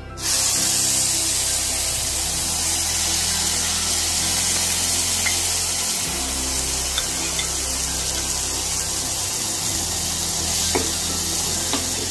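Wet onion and green chilli paste hissing loudly in hot oil in a non-stick saucepan, starting suddenly as the paste goes in and holding steady while a steel spoon stirs it, with a few faint clicks near the end.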